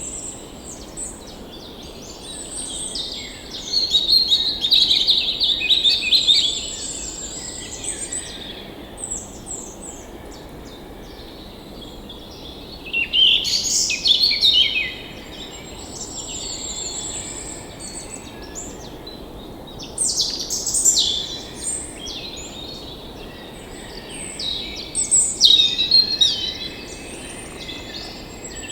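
Several songbirds singing and calling, with a thin high trill repeated throughout and louder bursts of song about every six to seven seconds, over a faint steady hiss.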